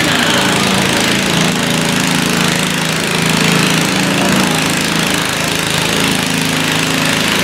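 Modified pulling lawn tractor's engine running loud and steady.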